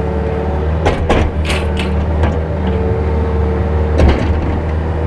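Yanmar VIO50 mini excavator's diesel engine running steadily, with a few sharp knocks from the machine as it works, the loudest about four seconds in.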